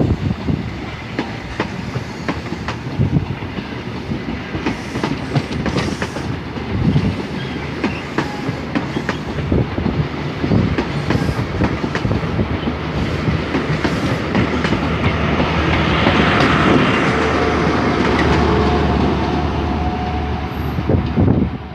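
A train running past on the rails, its wheels clacking over rail joints in a quick series of clicks, growing louder and steadier about three-quarters of the way through.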